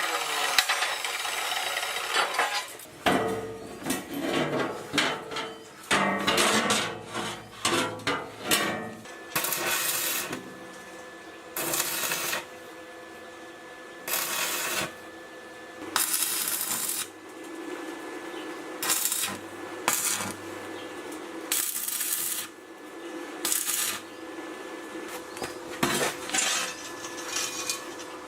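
Hand work on metal parts: a run of dense scraping at first, then separate scraping or rubbing strokes, each under a second long, every second or two, with clinks of metal against metal and a faint steady hum underneath.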